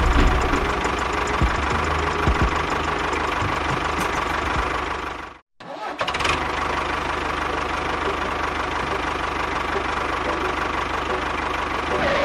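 Tractor engine running steadily with a fast, even knock. It cuts out abruptly for a moment about five and a half seconds in, then carries on.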